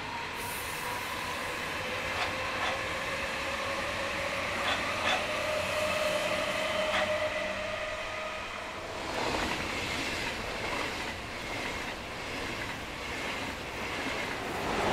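A Berlin S-Bahn train runs by with a steady whine and sharp wheel clicks over rail joints. Then a Deutsche Bahn ICE 2 high-speed train passes through close by, a swelling rush of wheel and air noise that is loudest near the end.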